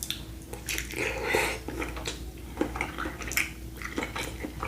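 Close-miked eating sounds: chewing with scattered small clicks and wet squishes of food being handled.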